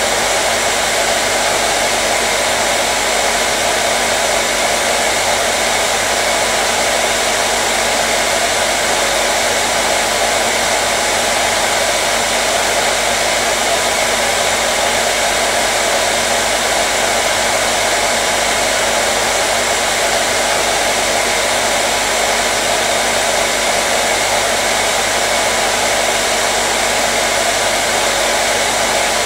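Hair dryer running steadily: an even, loud rush of air with a faint motor hum underneath, unchanging throughout.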